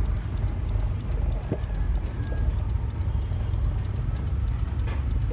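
Low, steady engine and road rumble heard inside a moving car's cabin, with faint rapid ticking.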